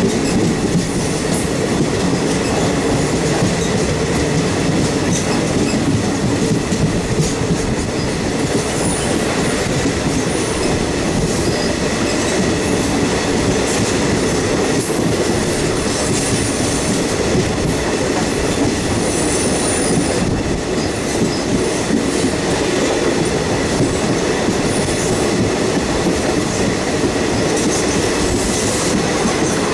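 Passenger train running steadily at speed, heard from an open coach doorway: a continuous rumble and rattle of wheels on the rails, with a faint steady high whine.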